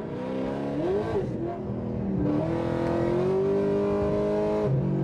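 A vehicle engine revving hard: a quick blip up and down about a second in, then a long pull from about two seconds in, its pitch climbing slowly until it cuts off abruptly near the end.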